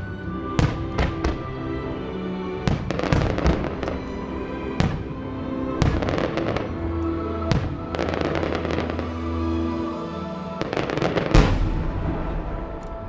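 Fireworks shells bursting over a music soundtrack: a string of sharp bangs, some in quick crackling clusters, with the loudest, deepest boom about eleven seconds in.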